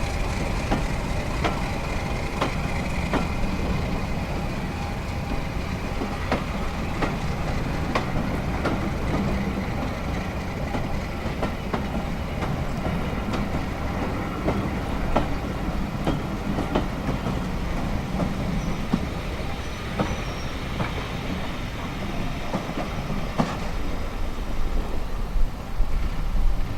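Train running on rails, its wheels clicking over rail joints, with a thin wheel squeal in the first few seconds.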